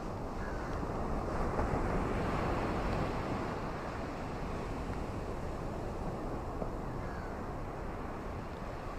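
Ocean waves washing onto a beach: a steady rush that swells about a second and a half in, then eases off.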